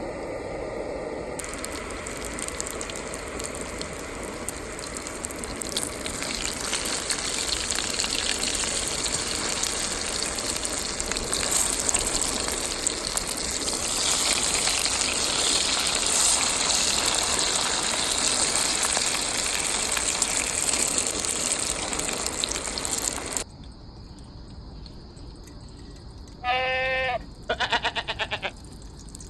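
Water running steadily in a gush, stopping abruptly about 23 seconds in. A few seconds later comes a short high-pitched squeal, then a brief quick rattle.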